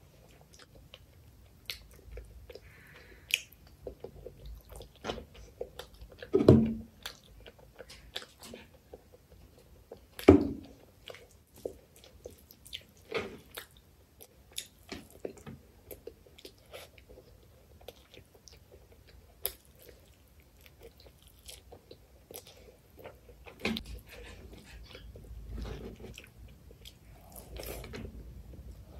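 Close-miked chewing of chicken liver curry and rice eaten by hand: a continuous run of short clicking mouth noises, with two louder moments about six and ten seconds in.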